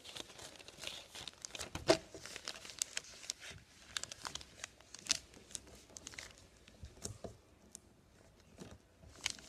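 A sheet of paper being folded and creased by hand: irregular crinkling and rustling with short sharp crackles, the loudest about two seconds in.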